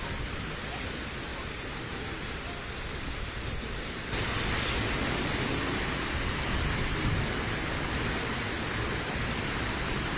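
Steady rushing noise of a flash flood: heavy rain and fast-moving floodwater, stepping up in level about four seconds in.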